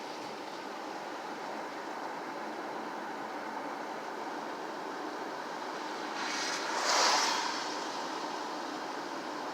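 Steady outdoor background noise, with a brief swell of rushing noise that rises and fades about seven seconds in.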